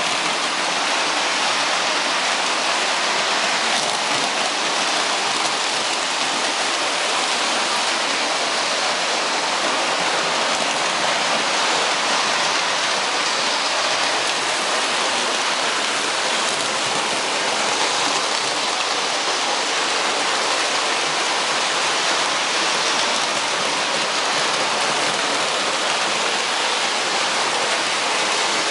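Steady, even rushing noise that holds at one level, with no tones, beats or knocks in it.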